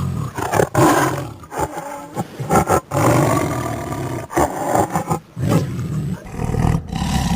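Tiger roaring again and again, loud harsh calls broken by short pauses.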